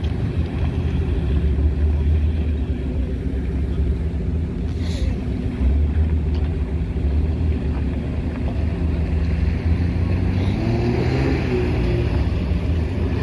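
Off-road 4x4's engine running at low revs with a deep rumble, revving up and dropping back down about ten to eleven seconds in.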